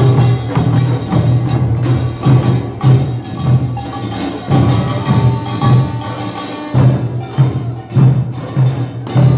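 Korean pungmul (nongak) farmers' band percussion playing: drums beating a driving rhythm over the ringing and clatter of gongs.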